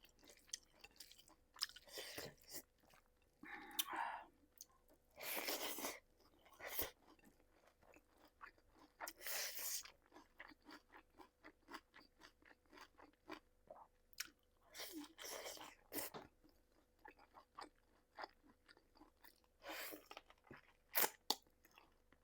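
Close-up chewing and wet mouth clicks from someone eating curry and rice, with several longer, louder crunching or slurping swells every few seconds.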